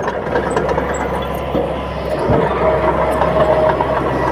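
Komatsu D31P bulldozer's diesel engine running steadily, with a single low knock a little past two seconds in and a steady whine that joins soon after.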